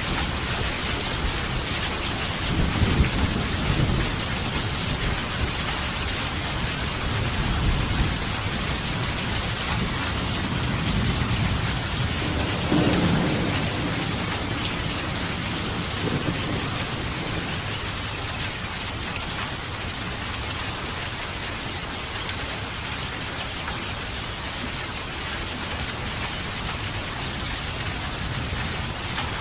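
Steady heavy rain with rolling thunder: low rumbles swell several times in the first half and fade to a quieter rumble under the constant rain in the second half.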